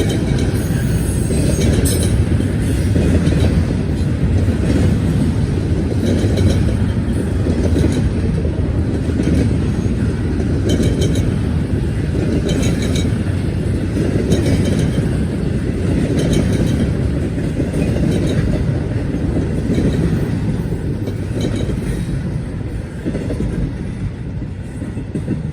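BNSF freight train rolling past: a steady rumble of railcars, with wheels clicking over rail joints, often in pairs, every few seconds. It fades slightly near the end.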